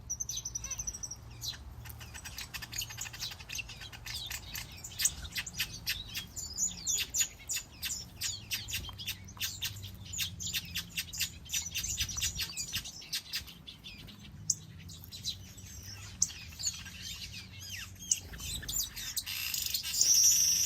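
A flock of small aviary birds chirping and calling, many short high chirps overlapping almost without pause, growing louder near the end.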